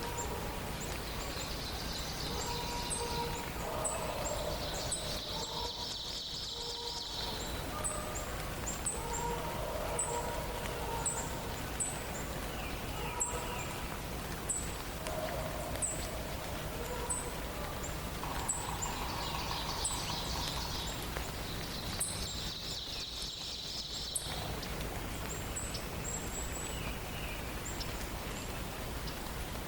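Forest birds singing: a songbird repeats a high trilled phrase four times, in two pairs, among short high chirps and lower whistled notes, over a steady background hiss.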